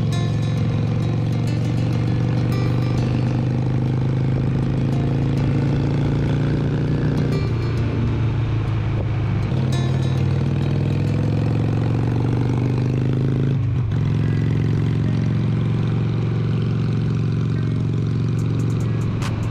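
Harley-Davidson Sportster 883's air-cooled V-twin engine running under way, its pitch climbing through each gear and dropping at a few upshifts through the middle.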